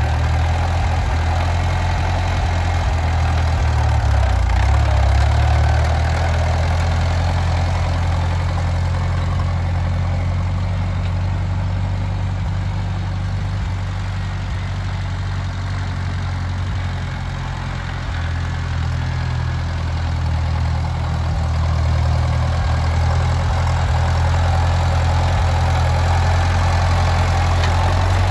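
Ford 5000 tractor engine idling steadily, a deep even note.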